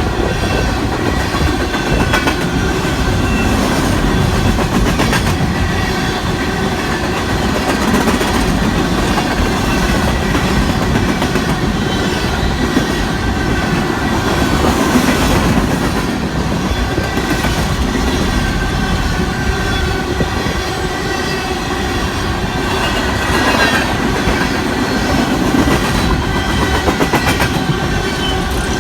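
Long Union Pacific coal train rolling past: a steady rumble of steel wheels on rail with clickety-clack over the joints and a faint steady wheel squeal.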